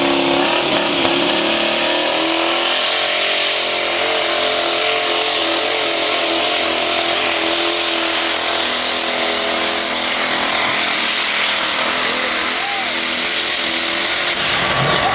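Diesel pulling truck's engine at full throttle as the truck drags a sled down the pulling track: a loud, steady drone with a hiss above it, its pitch dipping briefly about a second in and then holding.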